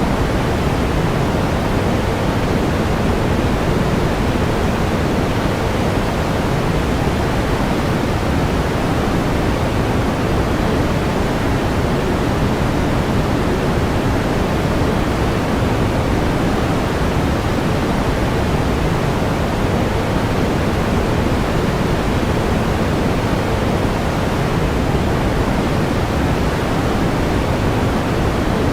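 Pink noise: a steady, even hiss, heavier in the low end and softer toward the top, with no change over time.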